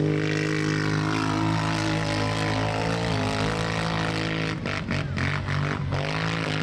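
ATV engine running at high, steady revs after climbing just before, then turning choppy with the revs dipping and picking up again about four and a half seconds in.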